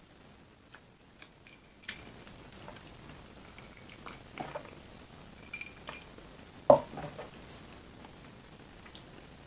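Close-miked eating sounds: a person chewing, with scattered soft clicks and one much louder sharp sound nearly seven seconds in.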